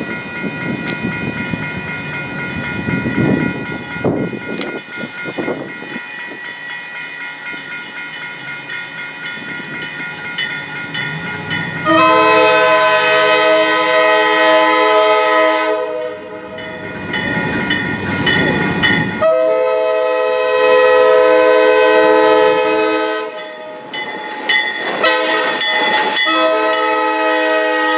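Diesel locomotive horn on an Alco RS-11 sounding the grade-crossing signal: two long blasts, a short one, then a long one, a chord of several notes. Before and between the blasts comes the rumble of the passing train.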